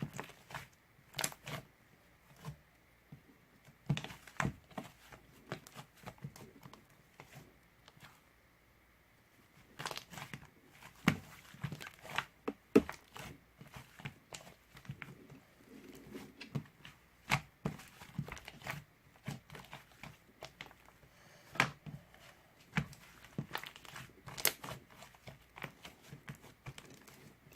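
Irregular crinkling and crackling with sharp clicks, sparse at first, briefly quiet, then busier after the pause.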